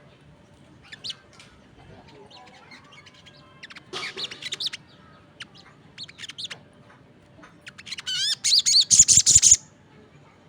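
Songbirds, a sogon among them, singing in short bursts: scattered chirps, a quick run of notes about four seconds in, and, loudest, a fast series of warbling, up-and-down notes from about eight seconds that stops abruptly a second and a half later.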